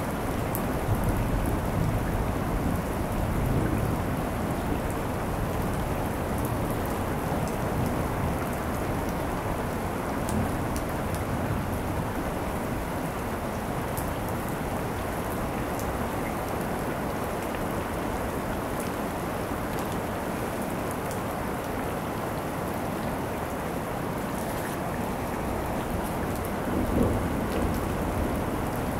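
Steady rain falling during a thunderstorm, with thunder rumbling low in the first few seconds and a short rumble near the end.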